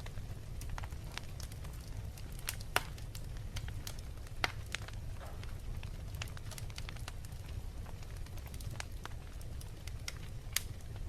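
Wood fire in a fireplace crackling, with irregular sharp pops over a steady low rumble; a few pops stand out louder than the rest.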